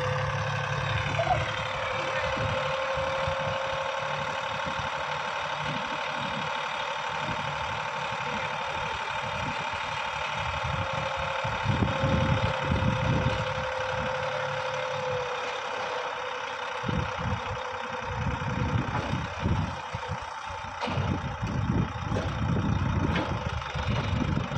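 Sonalika DI 750 RX tractor's diesel engine running steadily, with a steady higher tone over it for about the first half and an uneven low rumble later on.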